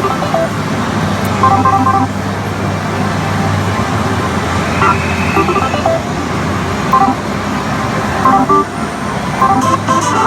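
The steady din of a pachislot parlour: many slot machines running together, with short electronic beep patterns recurring every couple of seconds.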